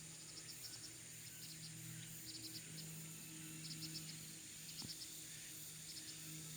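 Summer insects in the countryside: a steady high-pitched drone with short chirping pulses in quick groups of three to five, repeating every second or so, over a faint low hum that comes and goes.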